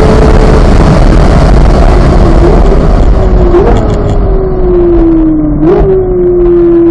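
2023 Chevrolet Corvette Z06's flat-plane-crank V8 slowing down, its pitch falling steadily, with three quick upward blips as it goes down through the gears. Rushing wind and road noise fades away as the car slows.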